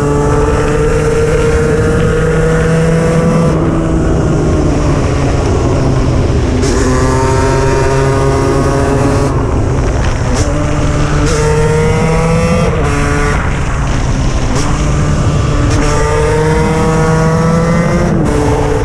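KTM 125 EXC single-cylinder two-stroke engine under hard acceleration, climbing in pitch and dropping sharply at each gear change, several times over.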